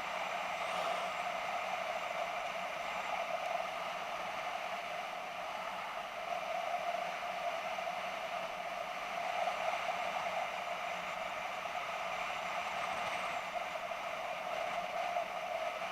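BMW F650GS motorcycle riding along at a steady speed: even engine drone mixed with wind and road noise, holding the same pitch throughout.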